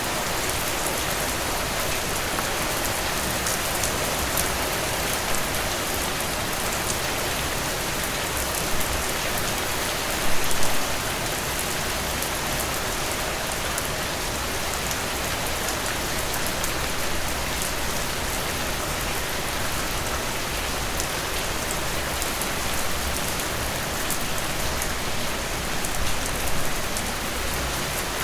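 Heavy rain falling steadily: a dense, even hiss of a downpour with single drops pattering through it, and a brief louder patch about ten seconds in.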